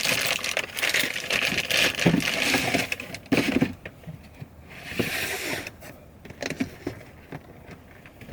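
Spice containers and jars being rummaged through in a storage bin, with short clicks, knocks and rattles, busiest in the first few seconds.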